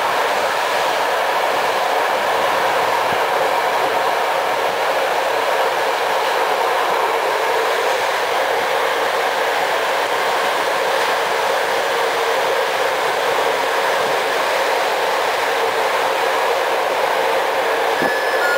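Steady running noise of a passenger train at speed, heard from inside a coach: wheels on the rails. Near the end, a short tone steps down in pitch.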